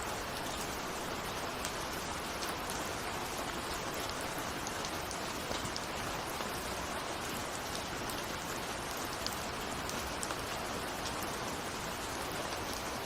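Steady rain falling, with a constant hiss of rainfall and many small, scattered drop ticks against a window.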